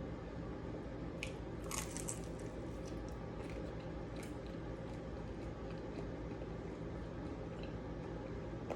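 Close-up biting and chewing of crunchy food, with a cluster of crisp crunches about two seconds in and a few smaller ones after, over a steady low hum.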